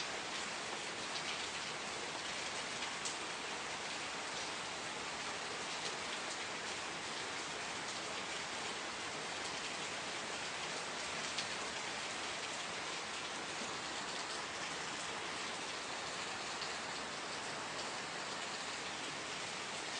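Steady rain falling, an even hiss of many drops with faint individual drop ticks now and then.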